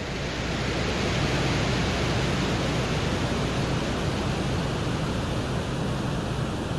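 Steady rushing hiss of even noise with no pitch or rhythm: the Venera 14 lander's microphone recording from the surface of Venus, meant to capture atmospheric wind noise as a way of measuring wind speed.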